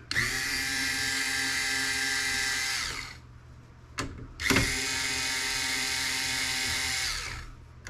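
Electric screwdriver or drill running twice, each run about three seconds long, as it backs out screws from a video card's heat sink. A sharp click falls between the two runs.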